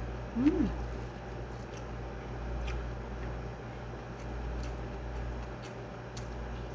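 Close-up chewing with faint wet mouth clicks and smacks, and a brief hummed 'mm' about half a second in that rises and then falls in pitch. A steady low hum runs underneath.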